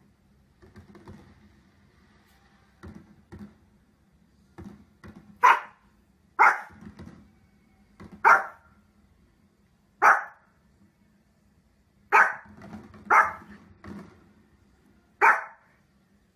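Small long-haired dog barking: about seven short, sharp single barks spaced one to two seconds apart, starting about five seconds in.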